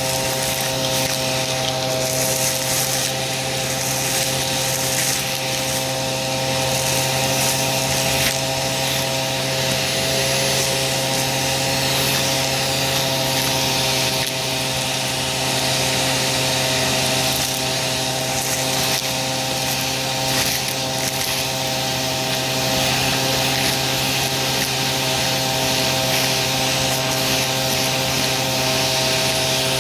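Aspiron vacuum cleaner running steadily, a constant motor hum and whine under a hiss of suction, crunching as it picks up debris.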